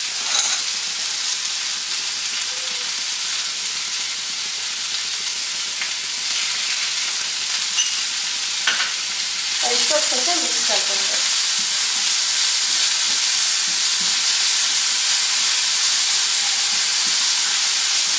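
Diced tomatoes, onion and green chillies sizzling in hot oil in a nonstick frying pan, stirred with a slotted spatula that scrapes and clicks against the pan. The sizzle gets louder about ten seconds in.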